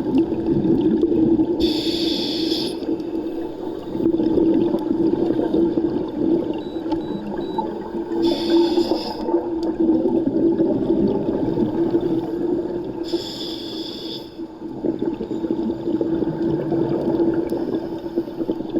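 Underwater recording of a diver's breathing: bursts of exhaled bubbles about every five to six seconds, each lasting about a second, over a steady low underwater rumble and hum.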